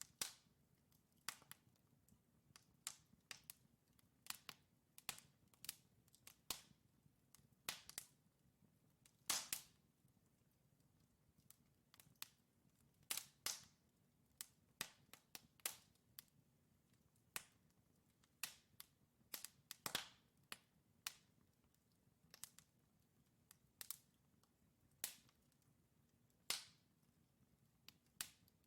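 Wood fire crackling: burning logs giving off sharp, irregular pops and snaps, a few every second, over a faint background.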